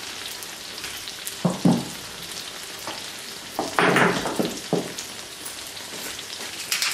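Pizza batter base frying in vegetable oil in a nonstick frying pan over low heat: a steady soft sizzle with fine crackling.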